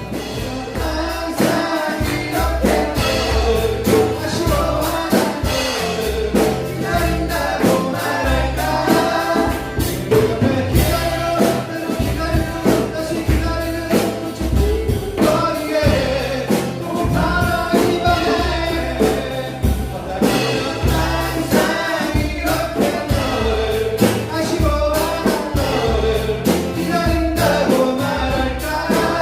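A group of voices singing together over strummed acoustic guitars keeping a steady rhythm.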